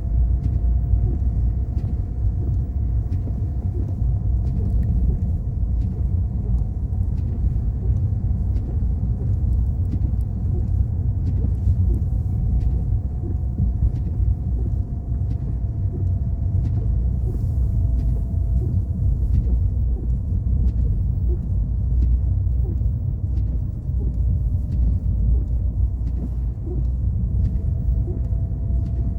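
Car driving: a steady low rumble of engine and tyres on the road, with a faint steady whine above it and scattered light ticks.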